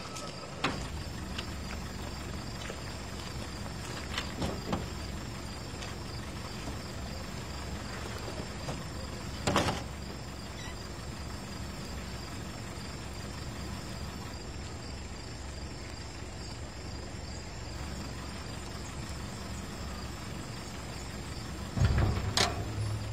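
Old car engine running steadily with a low rumble, with crickets chirping over it. A few sharp clicks, and a heavier thump near the end.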